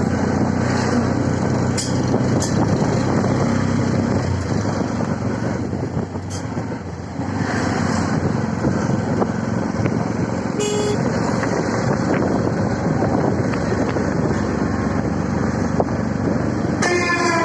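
CNG auto-rickshaw's small engine running with steady road noise, heard from on board. Short horn toots sound about eleven seconds in and again near the end.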